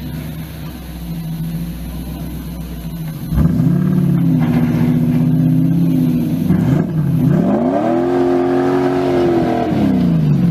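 Vehicle engine running steadily, then revved hard about three seconds in; the revs climb and hold, drop briefly, climb again and ease off near the end.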